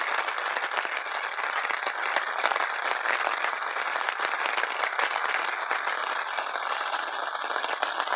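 Steady rain pattering on the fabric of a pop-up canopy overhead, a dense, even patter of countless drops.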